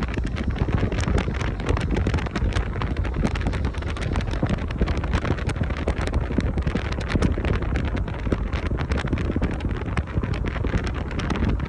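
A car driving with steady road noise and wind rushing and buffeting against the microphone, with frequent crackles through it.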